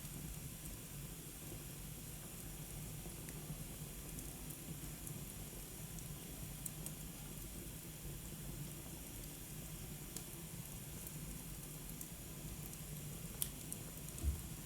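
Wood fire burning in a fireplace: a steady low hiss with scattered sharp crackles, a couple of louder pops near the end.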